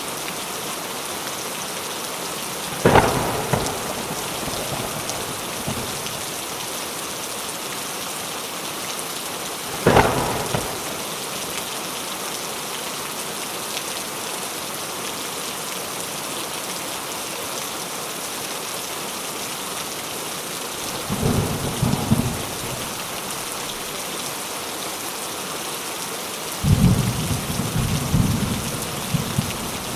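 Steady heavy rain hissing, with thunder: two sharp crashes about three and ten seconds in, then low rolling rumbles about twenty-one seconds in and again near the end.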